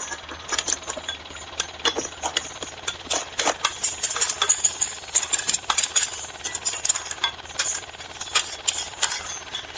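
Mini tractor running: a steady low hum under rapid, irregular clicking and rattling.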